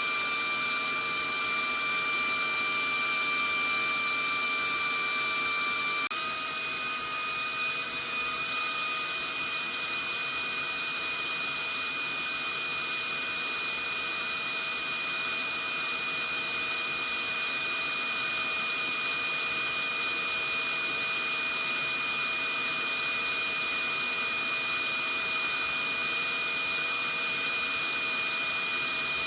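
Vacuum cleaner motor running steadily: a high whine over a rushing hiss. About six seconds in, the sound jumps a little louder and its whine shifts slightly higher.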